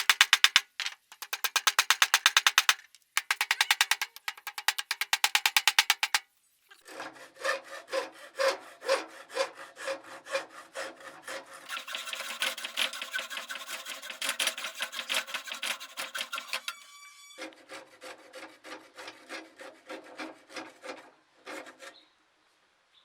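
Repeated scraping strokes of a hand tool working a piece. For about the first six seconds they come fast and evenly in short bursts. After that the strokes are slower and uneven, carry a ringing tone, and stop shortly before the end.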